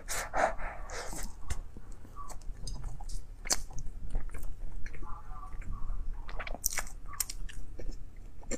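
Close-miked chewing of soft chocolate-filled bread: irregular wet mouth clicks and lip smacks.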